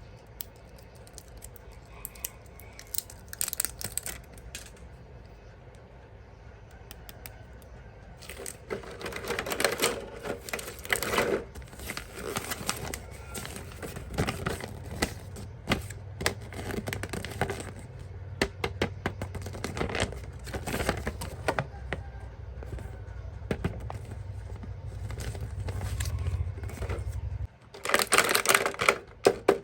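Plastic packaging and toy parts being handled: irregular clicks, taps and crinkling, busiest in the middle and again near the end. A low hum runs underneath for most of the time and cuts off suddenly near the end.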